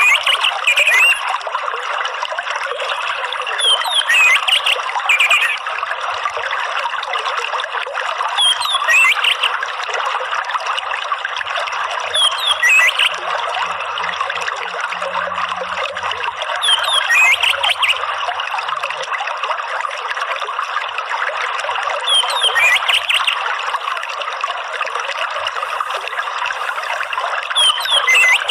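Steady trickling running water, with short chirping bird calls breaking in every four seconds or so.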